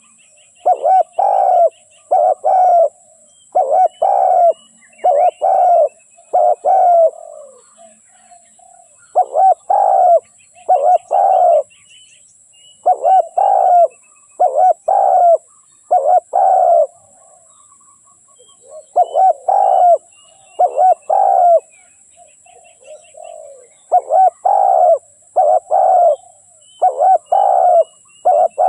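Spotted dove cooing close by in repeated phrases of several deep coo notes, each phrase a second or two long with short pauses between. Faint higher chirps and a steady high hiss sound behind it.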